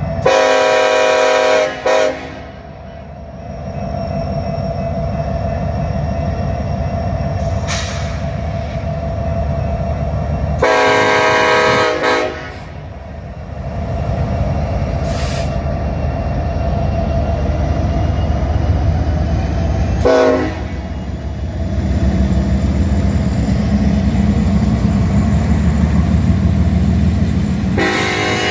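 Diesel freight locomotive sounding its multi-chime air horn in the grade-crossing pattern: two long blasts, a short one, then a long one starting near the end. Between the blasts the locomotives' engines and the train rumble steadily, growing louder as the train draws nearer.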